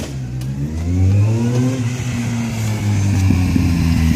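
Kawasaki Z750's inline-four engine revving through a Scorpion carbon-fibre exhaust with the dB killer removed. The revs climb from about half a second in and are then held up.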